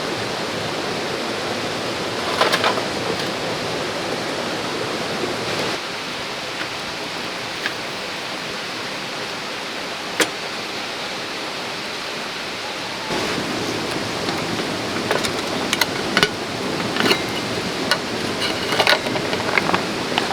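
A clear mountain stream flowing steadily. Scattered sharp clicks and taps sound over it, becoming busier and slightly louder about two-thirds of the way through.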